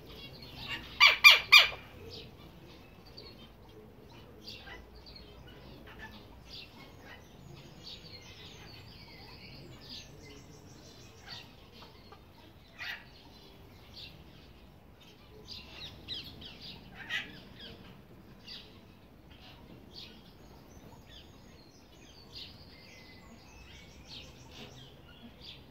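Birds calling: a loud run of three or four sharp, shrill calls about a second in, then scattered faint short chirps and peeps.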